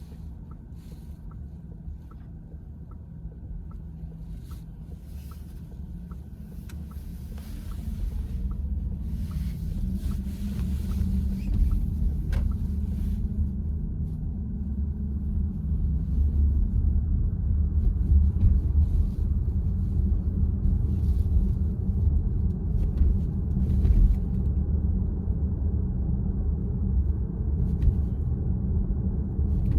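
Road and tyre rumble inside a VW ID.4's cabin while driving, growing louder about eight seconds in. A faint, even ticking, about two a second, runs through the first ten seconds or so.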